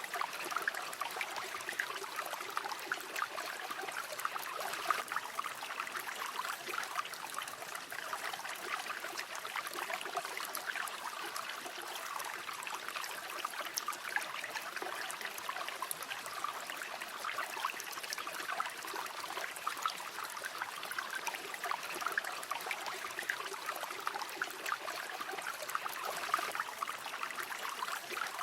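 River water running over stones, a steady babbling trickle with fine splashes.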